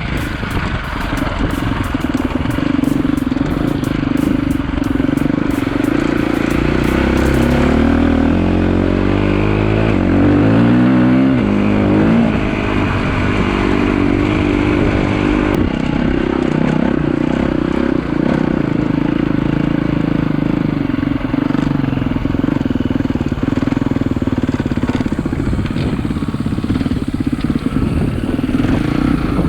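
KTM EXC-F four-stroke single-cylinder dirt bike engine running while riding, its pitch rising and falling several times about a third of the way in as the throttle is worked and gears are changed, then running steadily again.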